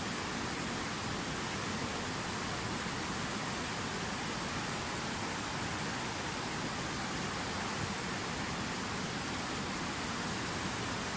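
Steady, even rushing noise with no changes and no separate sounds.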